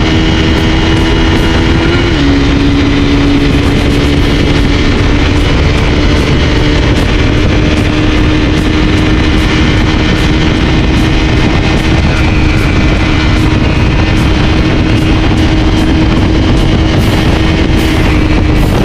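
Honda CRF250 Rally's single-cylinder engine running hard at high revs as the bike accelerates toward top speed, with wind rushing over the microphone. The engine note dips briefly about two seconds in, then holds steady and climbs only slightly.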